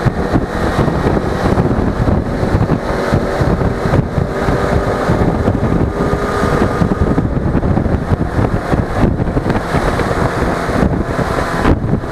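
Wind noise buffeting an action camera's microphone on a moving Suzuki V-Strom 250 motorcycle, with the engine's steady running hum underneath.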